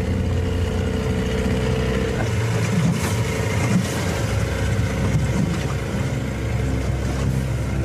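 Small motorboat's engine running steadily, with the wash of water and wind over it. Held background music tones fade out about two seconds in.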